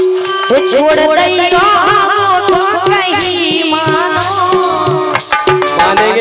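Live Indian folk music: a hand drum keeps a steady beat under a rattling metal percussion, with a melody line that bends and wavers in pitch starting about half a second in.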